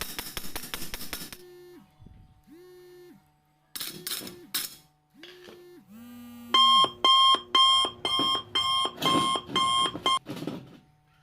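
A series of loud electronic alarm-like beeps, about two a second for a few seconds, preceded by quieter short tones that slide in pitch.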